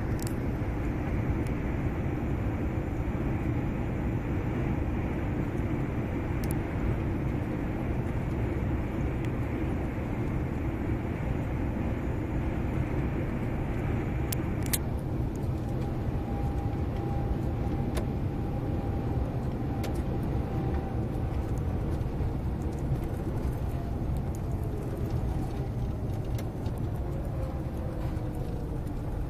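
Scania 143M 470 truck's V8 diesel engine running steadily under way, a dense low rumble. About halfway through the upper part of the sound drops away.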